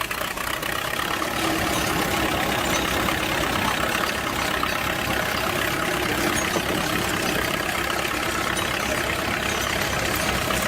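Vintage tractor engine running steadily, with a fast, even low-pitched pulsing.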